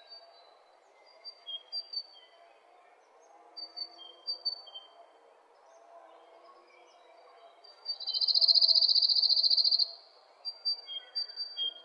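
Birds chirping, with short high chirps repeating. About eight seconds in, a loud high buzzing trill lasts about two seconds and then stops suddenly.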